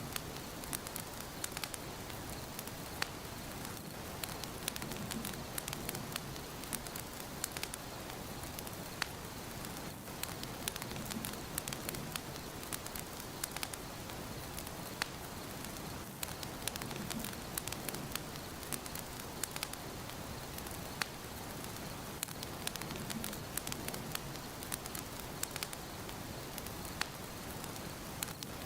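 Wood fire burning in a fireplace: a steady hiss with frequent sharp crackles and pops, and a soft low rumble that swells about every six seconds.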